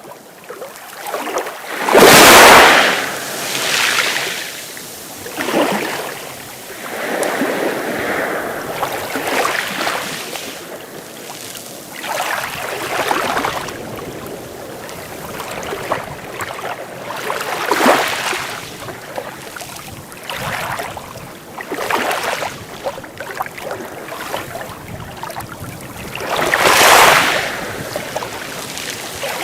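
Sea waves breaking and washing ashore, surging every few seconds. The loudest break comes about two seconds in, and another strong one near the end.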